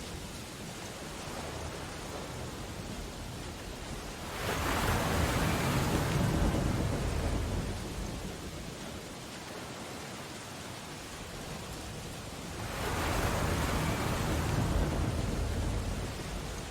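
Steady rain on window glass with stormy ocean waves breaking outside: two waves swell and fade, one about four seconds in and another near the end.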